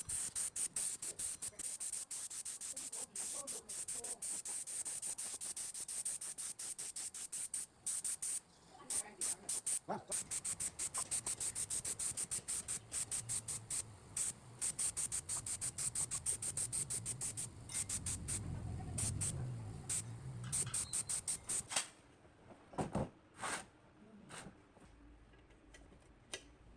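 Rapid back-and-forth hand strokes of an abrasive rubbing rusty metal, several strokes a second, in the manner of hand sanding or wire-brushing. The strokes stop near the end, leaving a few separate clicks.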